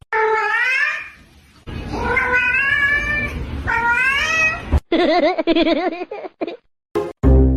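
A cat giving long, drawn-out meows, three in a row, followed by a wavering yowl.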